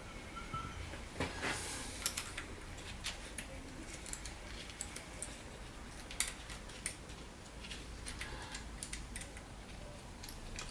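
Scattered light clicks and clinks of small hard objects being handled, a dozen or so sharp ticks spread irregularly, with a small cluster about a second and a half in.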